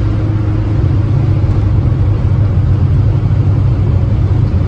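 Austin Allegro's A-series engine and road noise heard from inside the cabin while driving, a steady low drone.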